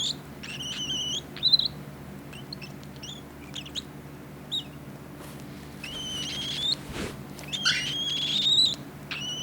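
Cinnamon cockatiel chick, about 26 days old, giving food-begging calls: several drawn-out high calls with short chirps between them.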